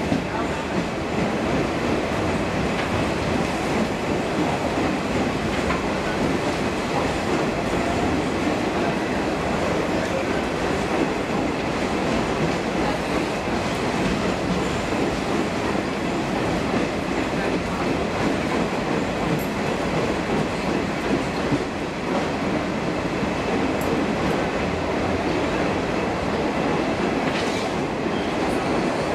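Express-train passenger coach running at speed through a tunnel, heard at the open door: steady, loud wheel-on-rail running noise.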